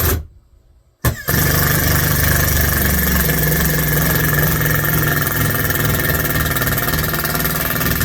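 Cordless drill running at full speed for about seven seconds, switching on abruptly with a click about a second in, with a steady whine.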